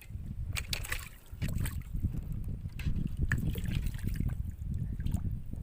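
Water sloshing and splashing, with scattered clicks and knocks, as a hooked patin catfish is fought and brought in.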